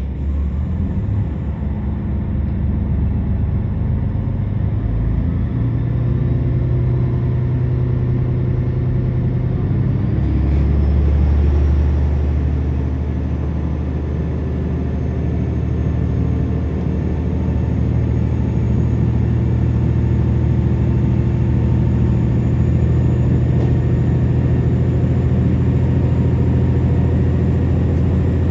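KiHa 47 diesel railcar's engine working under power, heard from inside the carriage, its low drone stepping up in pitch several times with a faint whine rising slowly as the train gathers speed.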